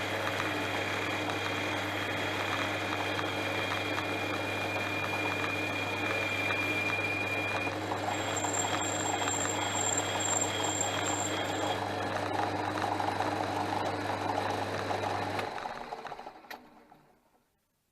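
Portass Model S lathe running steadily with a constant motor hum and a whirring mechanical noise, then switched off about fifteen seconds in and spinning down to silence over the next two seconds.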